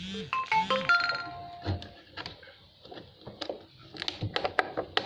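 A short electronic jingle of bright beeping tones, like a ringtone, followed a couple of seconds later by a run of sharp clicks and knocks.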